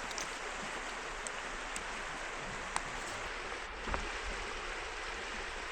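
River water flowing: a steady rushing with a couple of faint clicks.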